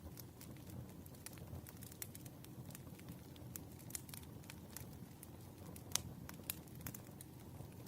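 Wood fire crackling: irregular sharp pops and snaps over a low steady rumble, with a louder pop about six seconds in.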